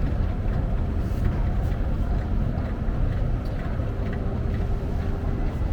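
Steady low rumble of a moving vehicle heard from inside it, with a faint steady hum.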